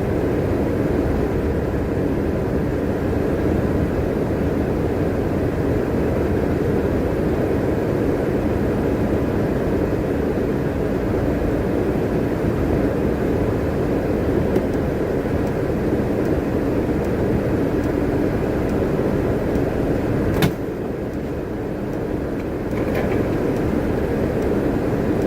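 Bus running on the road, heard from inside: a steady engine and road rumble. About twenty seconds in there is a sharp click, and after it the rumble is a little quieter, as the bus slows near its stop.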